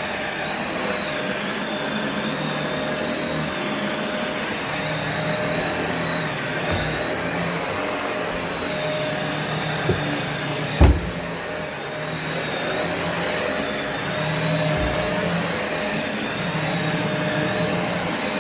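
Sebo Dart upright vacuum cleaner running steadily as it is pushed over the floor, its motor giving a constant rush with a high whine that wavers slightly. A few dull thumps come through, the loudest about eleven seconds in.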